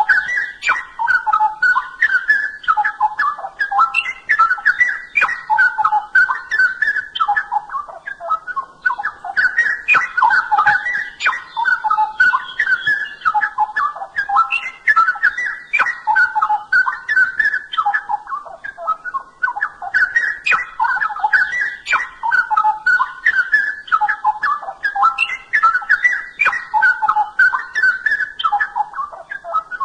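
Straw-headed bulbul (cucak rowo) singing: a continuous stream of rapid, rich, varied phrases in a mid-high range, with barely a break.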